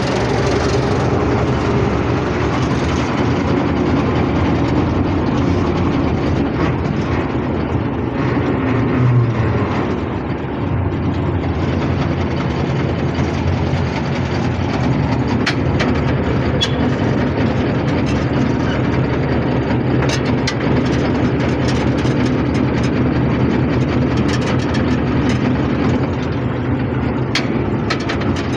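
Small diesel locomotive's engine running steadily as the train slows, with a few sharp clicks here and there.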